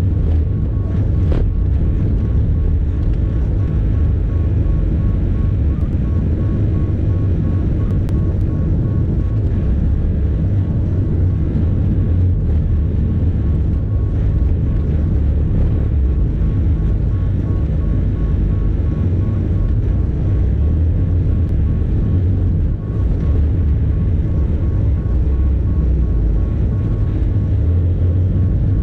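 Bobcat E50 compact excavator's diesel engine running steadily: a constant low drone with a faint steady high tone above it.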